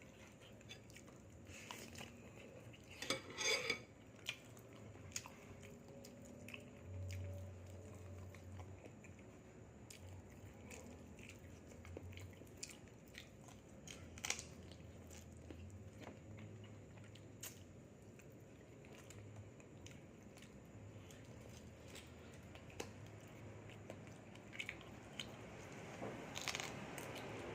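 A person eating: quiet chewing and biting, with scattered clicks of utensils against dishes and a brief louder clatter about three seconds in.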